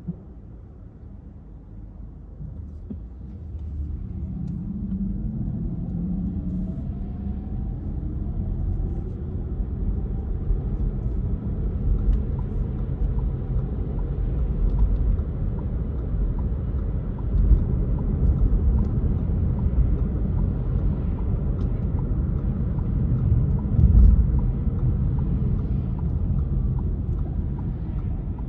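Car driving: a low engine and road rumble that grows louder about four seconds in as the engine note rises, then runs steady.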